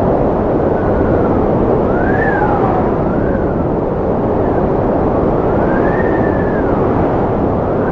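Strong wind blowing with a steady, deep rush. Whistling, howling tones rise and fall above it several times.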